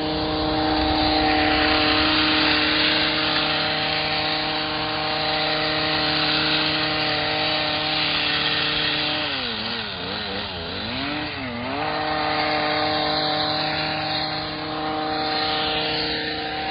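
Small gas engine of a handheld landscaping power tool running at high speed. Its pitch sags twice, about ten seconds in, as the throttle is eased, then it climbs back to full speed.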